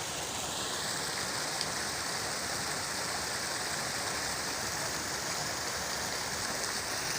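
Steady rushing and splashing of falling water, an even hiss without pauses.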